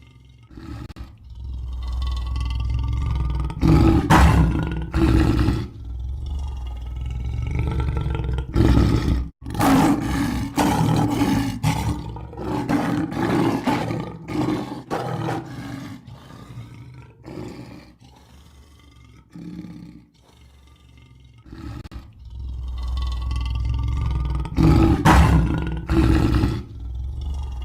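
Lion roaring: a series of deep roars and grunts with a heavy low rumble. The loudest roars come about four seconds in, around ten seconds and again near the end, with a quieter lull in between.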